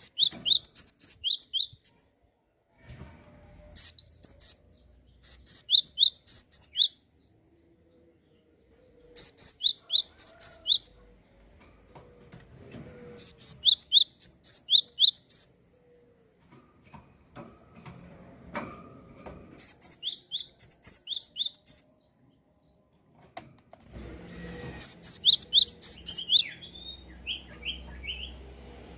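Gelatik songbird singing in repeated bursts of rapid, high, downward-sliding notes, about seven bursts separated by short pauses. The last burst runs into a lower string of notes, with a faint low rumble behind it.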